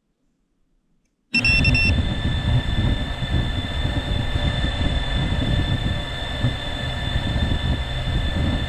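7-inch FPV quadcopter's motors and propellers running, a steady high whine over heavy wind rumble, cutting in suddenly about a second in.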